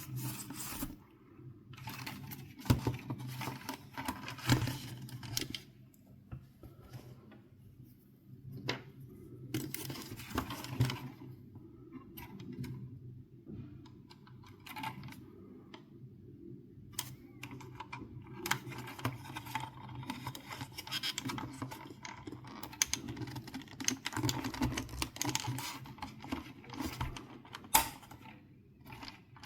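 Irregular small clicks, taps and stretches of rubbing from hands working on small hard parts, over a steady low hum.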